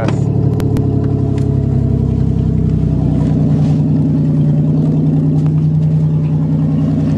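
1990 Buick Century's 3.3-litre V6 idling steadily moments after a cold winter start, caught without touching the gas, with a few light clicks in the first second or so.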